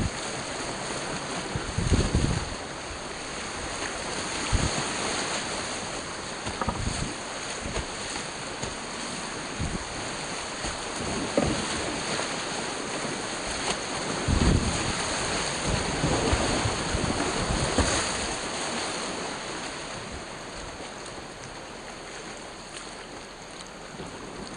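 Whitewater creek rushing past a kayak as a steady hiss, with occasional short low thumps. It eases off somewhat near the end.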